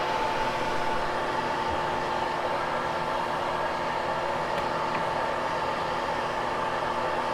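Hoover HushTone upright vacuum cleaner running steadily over carpet, a constant motor hum with a steady whine.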